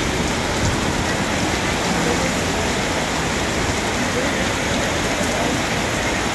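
Heavy tropical downpour: rain pouring steadily onto the road and pavement, a dense, even hiss.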